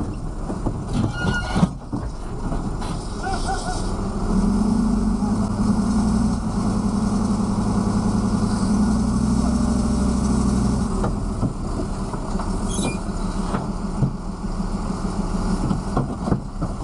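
Vehicle engine and road noise running steadily, a deeper hum swelling from about four to eleven seconds in, with a few short squeaks and knocks.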